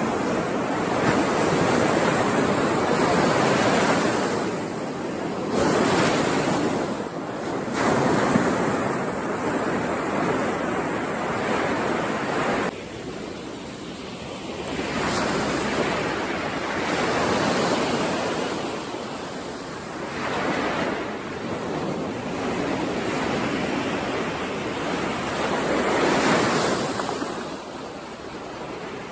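Ocean surf washing onto a shore, the waves swelling and fading every few seconds. About halfway through the level drops suddenly.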